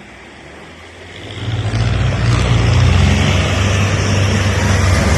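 Tractor engine getting quickly louder a little over a second in as it comes close, then running loud and steady with a deep low hum.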